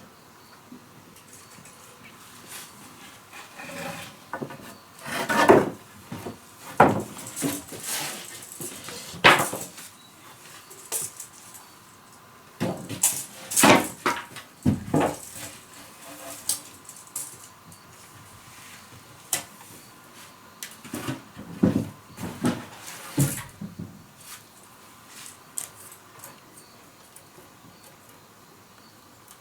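A run of irregular knocks and clinks, hard objects striking each other, coming thick for about twenty seconds and then dying away near the end.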